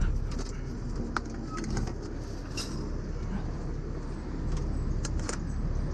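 Steady low rumble of an idling truck engine, with several short, light metallic clinks scattered through it.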